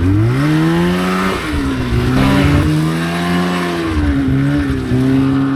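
Polaris RMK two-stroke snowmobile engine revving up as the sled pulls away in deep snow. Its pitch climbs sharply at the start, dips briefly about a second and a half in and again near the end, then holds steady.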